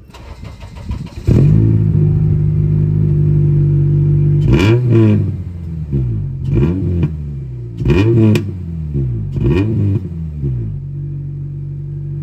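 A Honda Civic Si (FA5) 2.0-litre K20 four-cylinder is cranked by the starter for about a second and catches. It idles, then gets about five or six quick throttle blips through the stock exhaust before settling back to idle.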